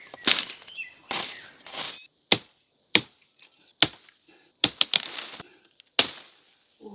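A series of chopping blows at an uneven pace, about ten in all. Some are sharp short cracks; others are longer, with a brushy swish.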